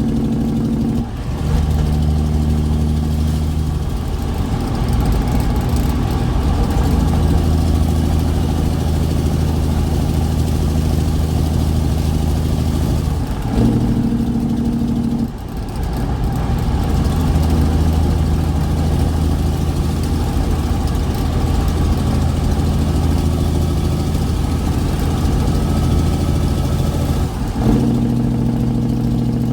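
Straight-piped diesel engine of a Kenworth truck running under load while hauling a heavy trailer. Its steady drone shifts in pitch in steps a few times: it drops about a second in, rises briefly near the middle, drops again, then rises again near the end.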